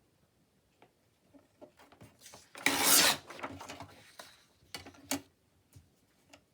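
Paper and craft materials being handled on a work surface: scattered light taps and rustles, a loud rubbing scrape lasting about half a second about three seconds in, and a sharp knock a little after five seconds.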